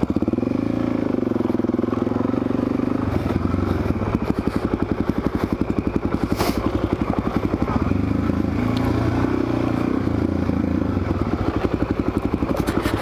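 Suzuki DR-Z400SM's single-cylinder four-stroke engine running while ridden on a trail, its pitch rising and falling with the throttle. There is a single sharp knock about six and a half seconds in.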